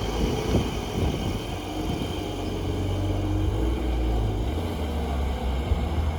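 A car engine running at low revs: a deep, steady rumble that grows stronger about two seconds in.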